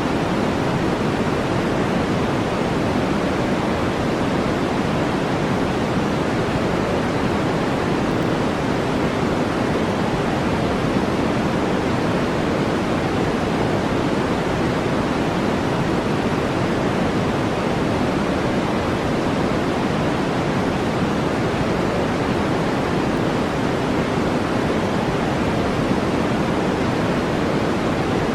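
Steady, unchanging noise track of the brown-noise kind, a deep even hiss weighted toward the lower middle range, with no breaks or events.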